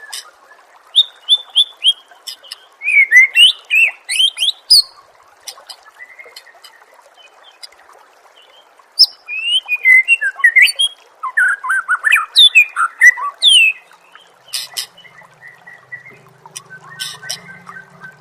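Recorded songbird song of the kind used as masteran to train competition birds: two runs of rapid chirps and quick rising and falling whistles, with a quieter gap between, over a steady hiss. A low steady hum comes in near the end.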